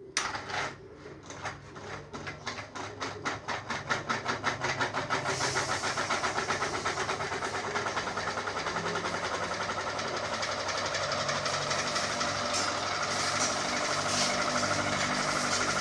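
Ceiling fan starting up: a rhythmic beat that quickens and grows louder over the first several seconds as the blades gather speed, then settles into a steady whirr.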